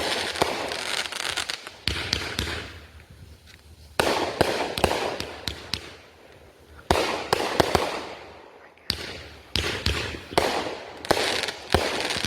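Consumer aerial fireworks bursting overhead in a series of sharp bangs, each trailed by crackling that fades over a second or two. The bursts come more quickly near the end.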